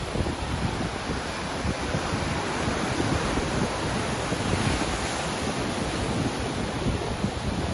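Ocean surf: a steady rush of waves breaking and washing, with a gusty low rumble of wind on the microphone.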